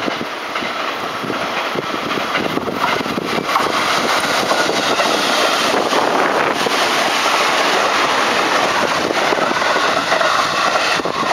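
Train running past close by: a loud, steady rolling rush of wheels on rail that builds over the first few seconds and then holds.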